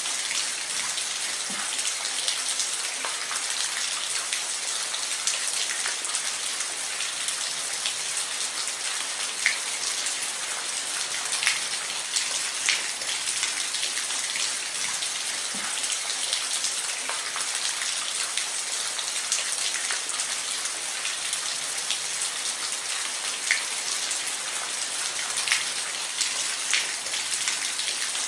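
Steady rain falling on a roof, an even hiss with scattered louder drop ticks.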